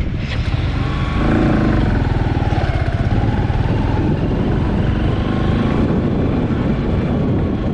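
Motor vehicle engine running steadily, growing louder about a second in, with a faint whine that dips and rises in pitch.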